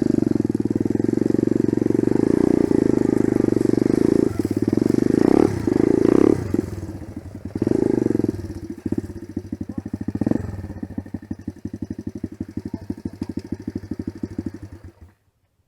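Enduro dirt bike engine running under throttle, its firing pulses steady. The revs rise and fall a few times midway, then it eases off and the sound cuts off suddenly near the end.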